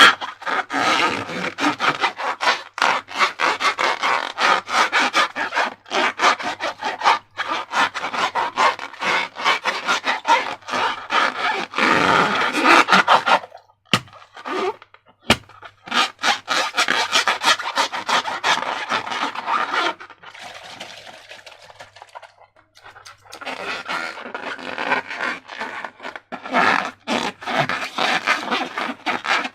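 Slime being worked by hand: a continuous run of sticky rubbing and scraping full of crackly clicks. It breaks off briefly around the middle for two sharp clicks, and goes quieter for a few seconds about two thirds through.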